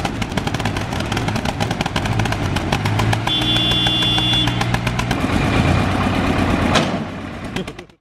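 Tractor diesel engine chugging hard under load with a fast run of sharp exhaust beats, straining to pull the bogged tractor out of the mud. A brief high steady tone sounds about three seconds in, and the sound cuts off suddenly at the end.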